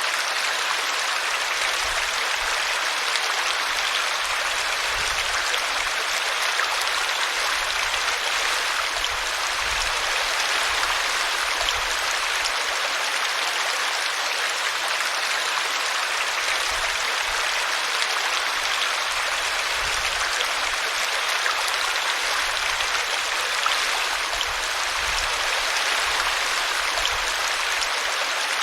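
Small brook babbling steadily as its water spills over a tree root.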